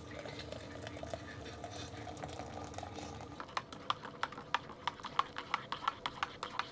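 Steady low hum of a diesel heater running. From about halfway through, rapid light clicking sets in, roughly four clicks a second.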